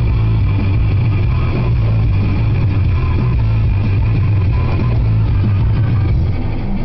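Steady low drone of a car driving, engine and road noise, with guitar music playing over it.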